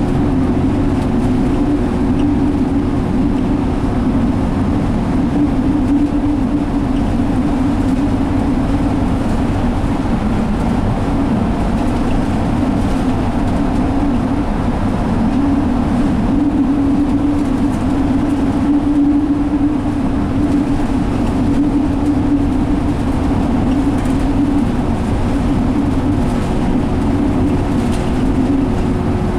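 Steady interior drone of a moving double-decker bus, an Alexander Dennis Enviro500 with a Cummins ISL diesel engine and Allison automatic transmission, heard from inside the cabin: engine, driveline and road noise with a constant low hum.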